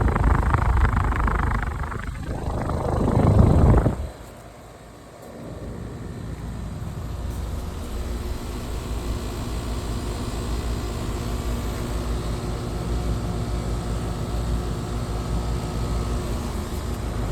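Heat pump outdoor units running in heat mode. A loud rush of fan air for the first four seconds drops off suddenly, leaving a steady compressor and fan hum with several steady tones.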